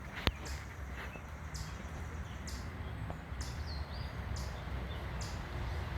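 A bird repeating a short, high call about once a second, over a steady low rumble. A single sharp click sounds near the start.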